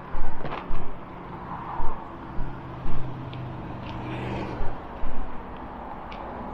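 A motor vehicle passing, its engine hum swelling from about two and a half seconds in and fading near five seconds. Sharp thumps come irregularly throughout.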